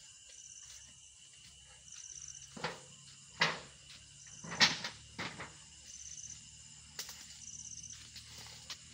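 Several sharp knocks and scrapes of beekeeping equipment being handled, the loudest about four and a half seconds in, over crickets chirping in short repeated trills.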